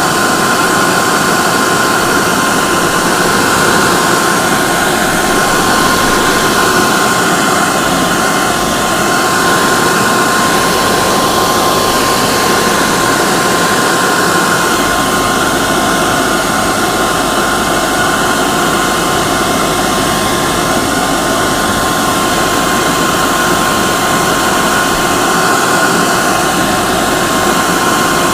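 Hair dryer running steadily: an even blowing rush with a steady high whine from its motor, used as white noise to calm a baby.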